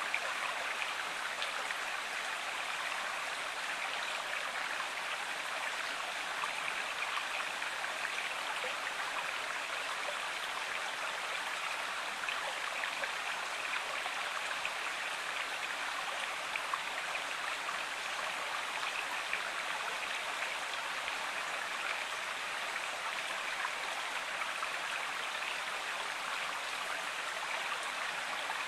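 Water of a stream or small river flowing steadily over stones, a continuous rushing and babbling without break.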